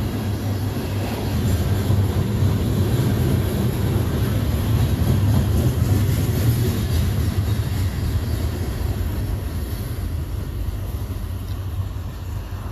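Freight train of tank cars rolling past, a steady low rumble of wheels on rail that eases slightly near the end.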